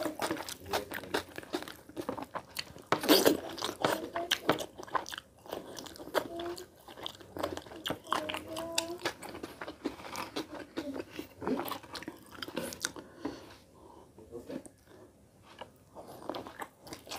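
Close-miked wet chewing and lip smacking as rice and curry are eaten by hand. There is a run of sharp mouth clicks, busiest a few seconds in, and a bite into a boiled egg near the end.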